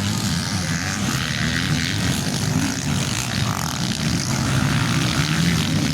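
Several motocross bikes running on a dirt track, their engines rising and falling in pitch as they rev through the course.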